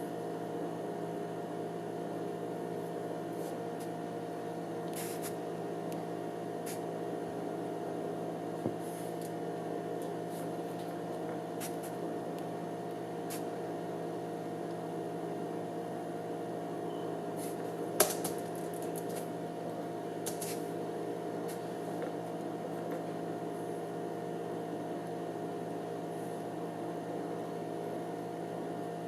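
Spinning gyroscope giving a steady hum, its twisting noise. It is broken by faint ticks, a click about nine seconds in and a louder click about eighteen seconds in.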